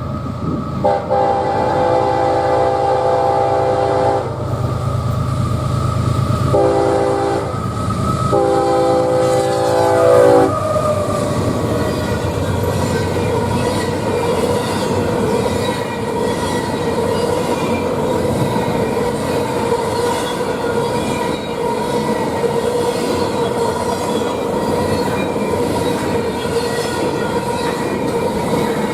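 A freight locomotive sounds its multi-note chord horn for the crossing: a long blast, a short one, then another long one, within the first ten seconds. The train then rolls past with a steady rumble and rattle of wheels on rail.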